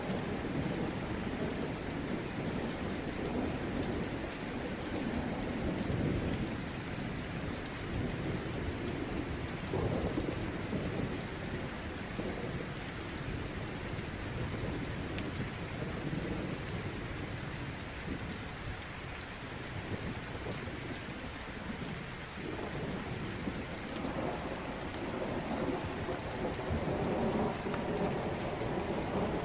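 Steady heavy rain with rolling thunder that swells and fades in low rumbles, over small sharp crackles from a wood fire.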